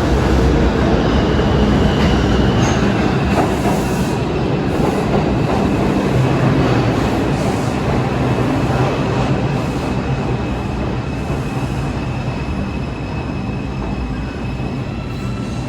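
New York City subway train rumbling along the rails with a thin, high wheel squeal, gradually getting quieter.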